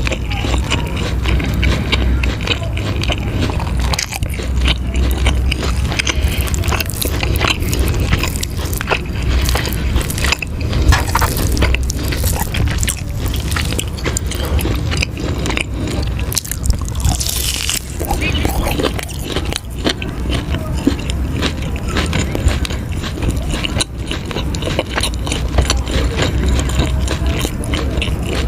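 Close-miked eating of cheese ribs: biting and chewing, with dense, irregular crisp crunches and clicks over a steady low hum.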